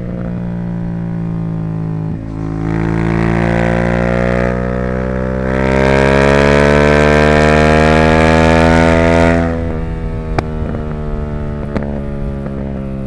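Yamaha YZF-R7's parallel-twin engine through a Yoshimura R77 exhaust, pulling hard with its pitch climbing, then the throttle closes about three-quarters of the way in and the note drops back. A couple of sharp pops follow on the overrun.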